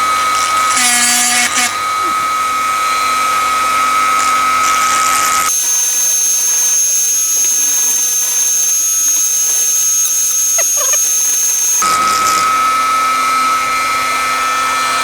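Dremel rotary tool running steadily at high speed, its small wheel cleaning rust off steel wrench parts, with a high, even whine. For about six seconds in the middle the sound turns thinner, with a higher whine, then the first whine comes back.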